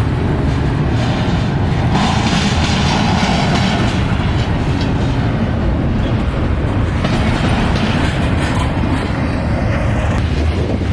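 Cars of a mixed freight train rolling slowly past on the rails, a loud steady noise from wheels and cars.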